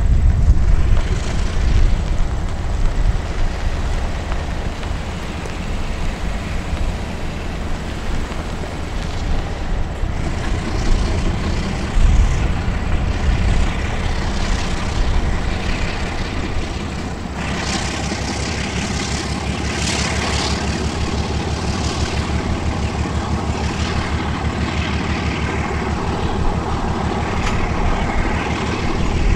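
Diesel locomotive pulling a train away, its engine running with a steady low rumble, with one sharp knock about halfway in. From a little past halfway, the tank cars' wheels add a noisy rattle and hiss as they roll past.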